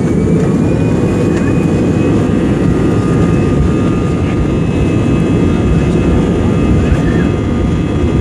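Loud, steady jet-engine noise heard inside an Airbus A320-214's cabin, from its CFM56-5B turbofans at high thrust during take-off, with a deep rumble under several engine whines. One whine rises over about the first second, then holds steady.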